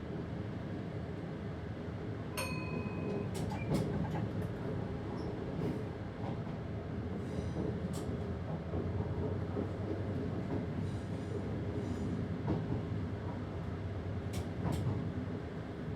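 Passenger train running on the line, heard from the driver's cab: a steady low rumble of motors and wheels on rail, with a short high beep about two and a half seconds in and a few sharp clicks over rail joints later on.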